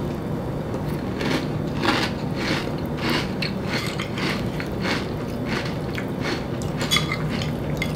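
A person chewing a mouthful of chocolate cereal in milk, with a steady run of crunches a little under two a second.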